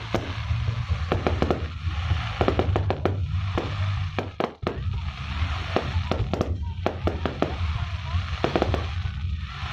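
Fireworks display: many sharp bangs and crackles of bursting shells in quick, irregular succession over a steady low rumble, with a brief lull about four and a half seconds in.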